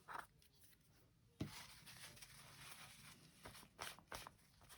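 Faint paper handling as a magazine cutout is glued and smoothed down onto a page. A sudden rustle about a second and a half in turns into soft rubbing for about two seconds, followed by a few light ticks near the end.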